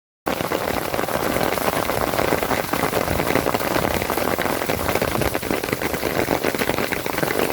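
Steady rain falling, a dense patter of drops that cuts in abruptly just after the start.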